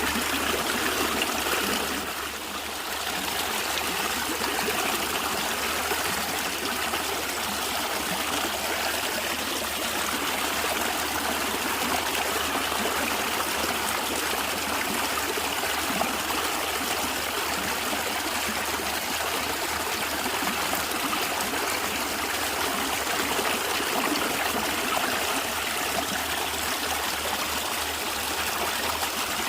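A natural stream of water gurgling and trickling steadily, briefly a little softer about two seconds in.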